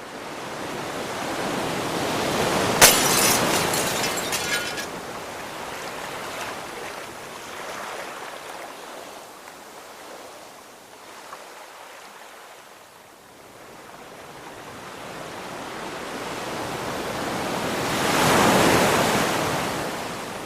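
Sea water rushing and washing, rising and falling in two long swells, with wind noise. About three seconds in a sharp crack or splash is followed by a couple of seconds of high fizzing spray.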